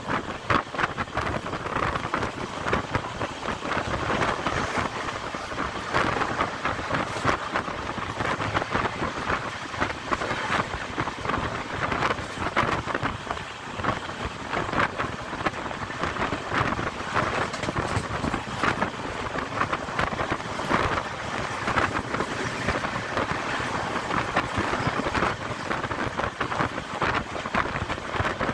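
Train running, heard from a coach's open window: a steady rush of wheel-on-rail noise with constant irregular rattling, and wind buffeting the microphone.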